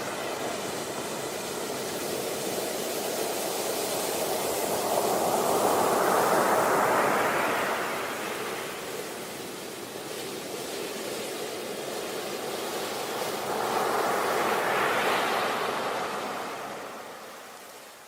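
Sea waves breaking and washing up on a beach: two slow swells of surf, loudest about six and fourteen seconds in, each rushing in and then fading away.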